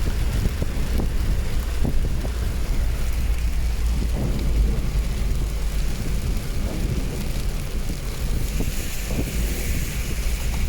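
Wind buffeting the microphone: a steady low rumble with irregular thumps and gusts, over a hiss of rain or road noise.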